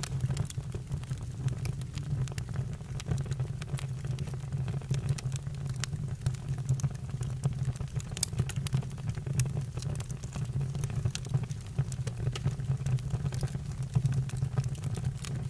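Campfire crackling: irregular sharp snaps and pops over a steady low rumble.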